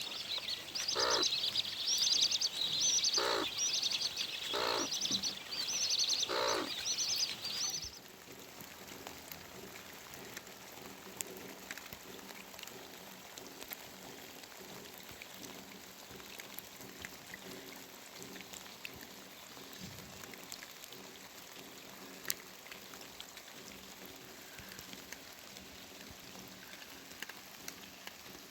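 Small birds chirping fast and high. About eight seconds in the chirping cuts off suddenly, leaving a faint, steady patter of scattered small ticks.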